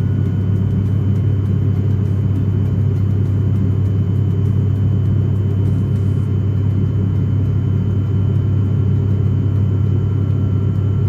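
Steady drone of an airliner in flight, heard inside the cabin: an even low rumble with faint steady whining tones above it.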